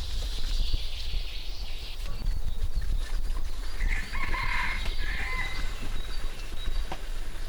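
A chicken calls once, about four seconds in, for about a second and a half, over a faint steady high tone and low background rumble.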